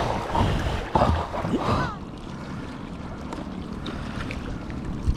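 Wind buffeting the microphone over water sloshing around a sea kayak, a steady rushing noise. A few short pitched sounds come in the first two seconds.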